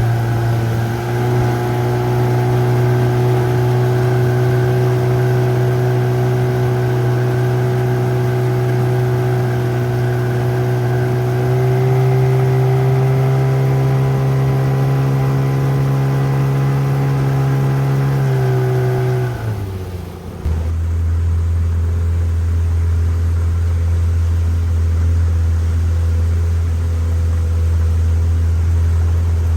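Small boat motor running steadily while the boat travels upriver. About two-thirds of the way through, its pitch drops suddenly to a lower, steady note.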